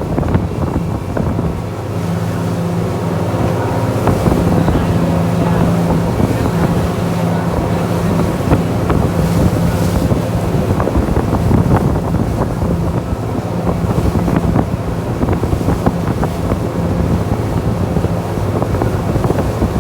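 Tour boat's engine running steadily at speed, a low constant hum, with wind buffeting the microphone and water rushing past the hull.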